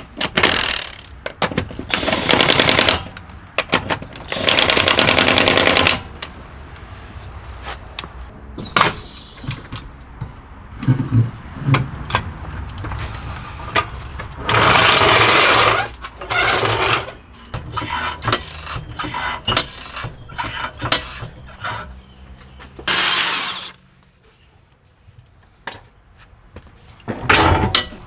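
A power impact tool, such as an impact wrench, run in about five bursts of one to two seconds of rapid hammering rattle, with clicks and clinks of tools and parts between.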